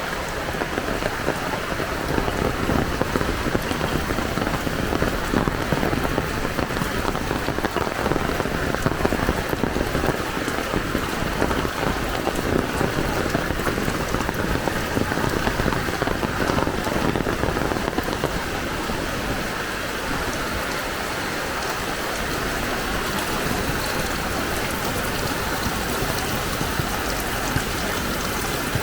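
Heavy rain falling and splashing on surfaces, a dense steady patter with no let-up. It is louder and more uneven through the first two-thirds, then settles to a steadier hiss.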